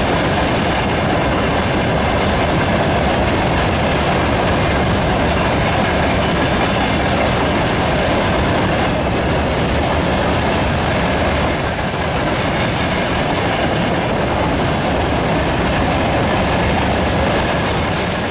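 Freight train rolling past on the rails: a loud, steady rumble and rattle of wagon wheels. A thin, high steady tone joins about halfway through.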